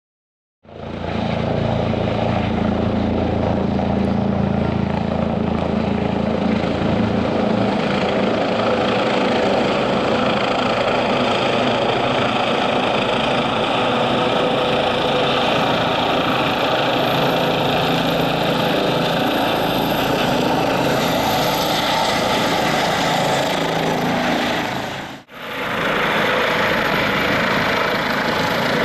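Airbus H135 helicopter's twin turbine engines and rotor running steadily and loudly, with a brief break about 25 seconds in.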